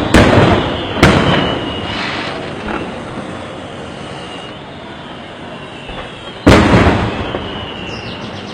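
Fireworks exploding: three heavy booms, one at the start, another about a second in and a third about six and a half seconds in, each trailing off in a long fading echo.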